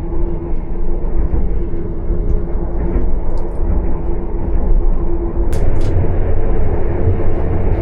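Running noise of the Argo Bromo Anggrek passenger train heard inside its cabin: a steady low rumble with a faint steady hum, and two short clicks a little past halfway.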